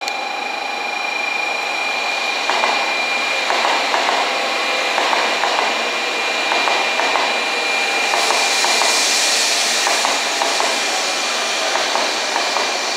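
N700A Shinkansen train pulling slowly into a station: steady rolling noise with a high steady whine, light irregular clicking from a couple of seconds in, and a swell of hiss about eight seconds in.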